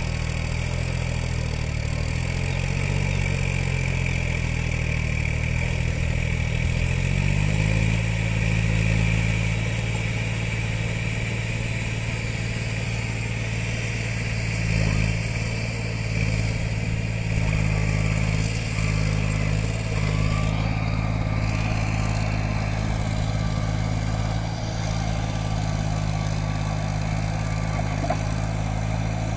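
New Holland 47 HP tractor's diesel engine running, its pitch rising and falling for the first several seconds, then settling to a steady speed about seven seconds in.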